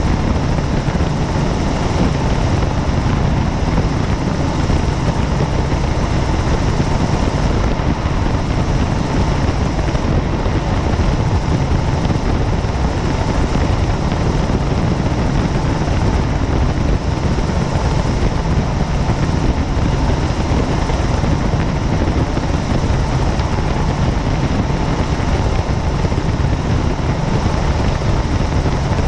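Helicopter in flight: steady, unchanging rotor and engine noise, heaviest in the low end.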